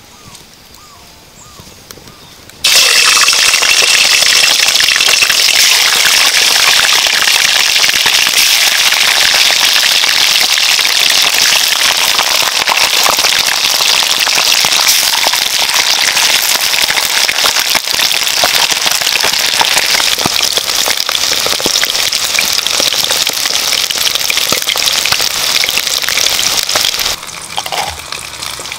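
Whole quails deep-frying in hot oil in a wok: a loud, dense sizzling and crackling that starts suddenly about three seconds in, runs steadily, and cuts off near the end.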